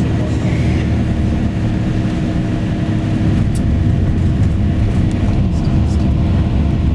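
Tour coach driving along, its engine hum and road noise steady from inside the cabin.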